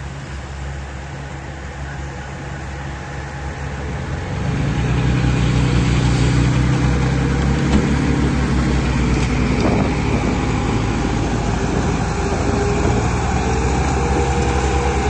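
Heavy earthmoving machine's engine running steadily, then getting louder and working harder about four seconds in.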